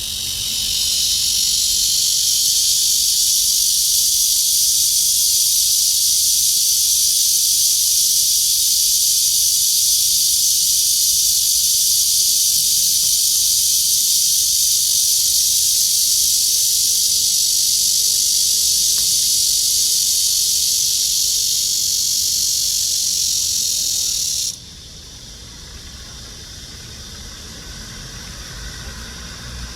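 A cicada singing: a loud, steady, high-pitched buzzing hiss that cuts off suddenly near the end, leaving a faint low rumble.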